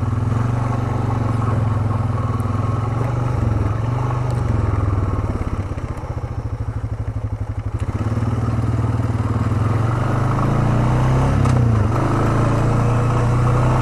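ATV engine running under way on a trail. Its drone eases off about six seconds in and picks up again about two seconds later.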